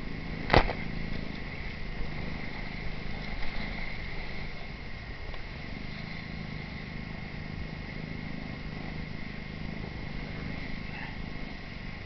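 Steady rush of wind and water on a sailing boat under way on a reach, with one sharp knock about half a second in.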